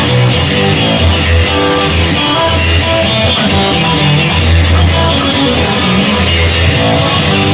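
Rock band instrumental: guitars over a bass line and a drum kit with a steady beat.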